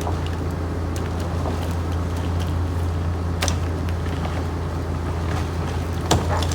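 Diesel engine of heavy logging machinery running steadily at an even speed. A sharp knock comes about three and a half seconds in and another near the end.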